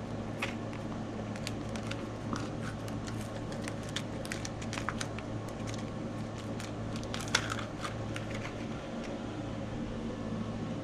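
Small metal nuts being handled and sorted: scattered light clicks and rustles, with a sharper click about seven seconds in, over a steady low hum.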